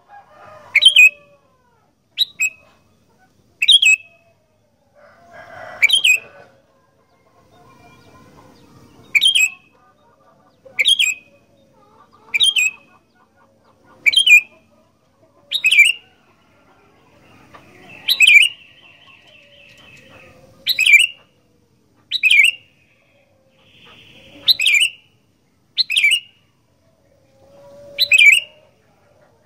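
Sooty-headed bulbul (kutilang) calling over and over in short, sharp, loud notes about every second and a half. Twice it gives a longer chattering phrase.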